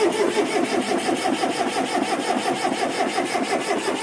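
Ashok Leyland four-cylinder diesel engine being cranked on its starter motor, turning over with a fast, even chug of compression strokes.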